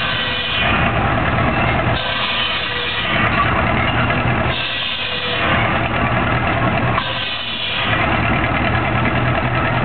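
Steam traction engine driving a wood-cutting saw: a steady low machine drone, with a harsher, higher rasp that returns four times, about every two and a half seconds.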